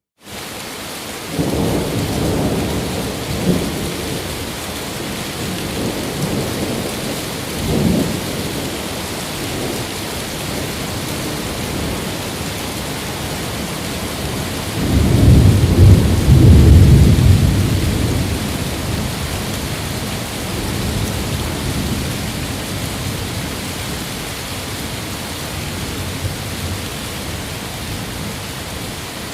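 Steady heavy rain with rolling thunder. After a moment of silence the rain cuts in, with low rumbles of thunder near the start and about eight seconds in, and a longer, louder roll about halfway through that slowly dies away.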